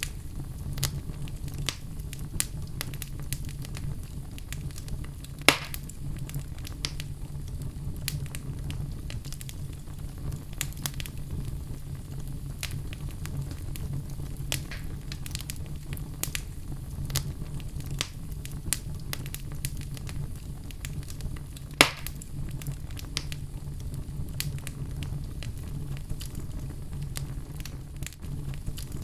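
Wood fire burning in a fireplace: a steady low rumble of the flames with frequent small crackles, and two loud sharp pops about five seconds in and again near twenty-two seconds.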